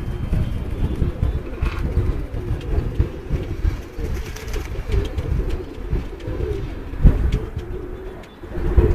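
Domestic pigeons cooing repeatedly, over a low rumble, with a sharp thump about seven seconds in.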